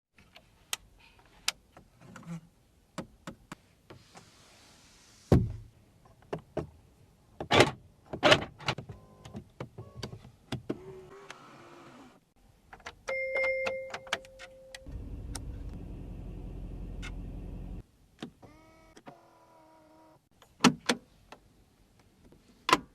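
Clicks and clunks from a Mercedes-AMG G63's door and cabin controls, a short steady beep about halfway through, then a small electric motor, such as a power window, running for about three seconds and stopping suddenly.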